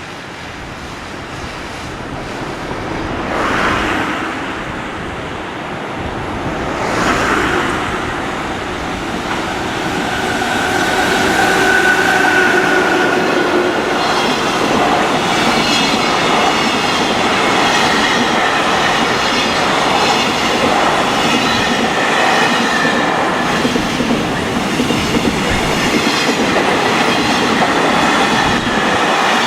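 A JR Freight train hauled by an EF66 electric locomotive passing close by. The sound swells twice in the first few seconds as the locomotive goes past, then the long string of freight wagons rolls by. Their wheels clatter over the rail joints and give off several high whining tones.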